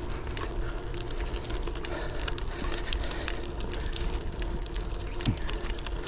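Folding bike rolling along a rough path: a steady rumble of tyres and wind on the microphone, with many scattered small clicks and ticks.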